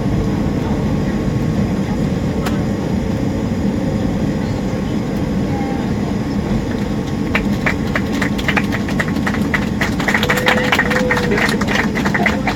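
Airliner cabin noise: a steady low rumble of jet engines and airflow as the plane rolls along after landing. From just past halfway, a run of rapid clicks and rattles joins in and grows busier toward the end.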